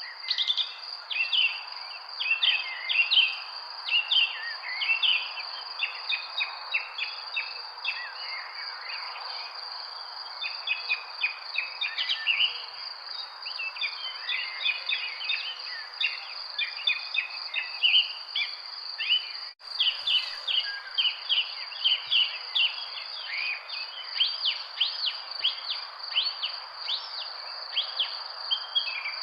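Many small birds chirping and twittering in quick, overlapping calls over a steady high insect trill, with a soft background hiss. The sound drops out for a split second about two-thirds of the way through.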